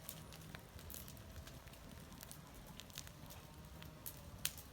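Bonfire of fallen leaves burning with faint, irregular crackles and pops, one sharper pop near the end.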